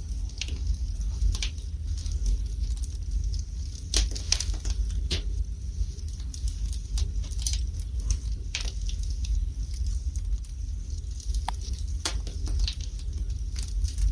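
Wood fire burning in a fireplace: irregular sharp crackles and pops from the burning logs, a few louder snaps among them, over a steady low rumble.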